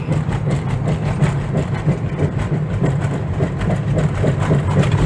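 Cabin noise of a van being driven: a steady low drone of engine and tyres, overlaid with a fast, irregular clatter of small rattles and road-surface ticks.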